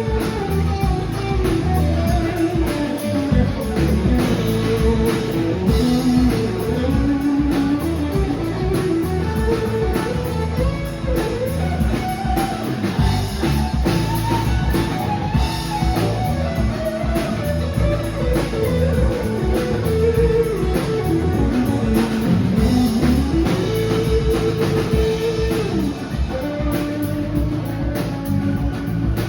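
Live rock band playing an instrumental passage: an electric guitar plays a lead line with bent, gliding notes over bass and a drum kit.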